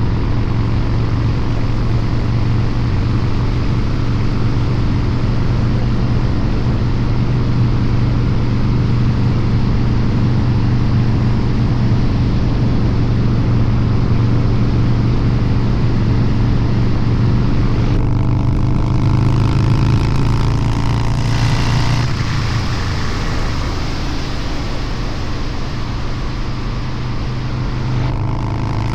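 Harley-Davidson Low Rider's 129 cubic inch V-twin through a Two Brothers Racing exhaust, running steadily under way. About two-thirds of the way through its pitch rises for a few seconds as the throttle is opened, then it eases off and runs a little quieter.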